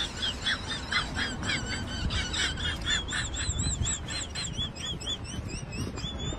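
Birds calling: a rapid run of short, high chirps, several a second, over a low rumble.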